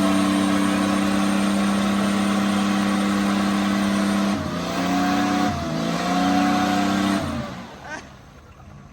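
Truck engine held at high, steady revs during a tyre-spinning burnout. It dips in pitch twice past the halfway mark, then lets off a little after seven seconds in, and the noise dies away.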